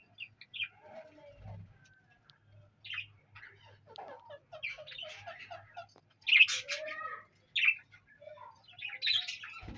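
A colony of small pet parrots, budgerigars and lovebirds, chirping and chattering in many short calls, with the loudest burst of calls about six seconds in.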